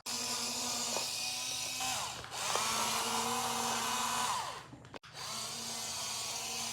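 Small electric motors of a toy excavator whirring, their pitch sliding up and down as the arm works, in three runs with a short dip a little over two seconds in and a sudden break about five seconds in.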